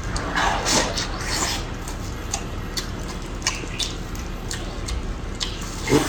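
Wet mouth sounds of eating a crab-roe soup dumpling: a few slurps in the first second and a half, then scattered small wet clicks of chewing.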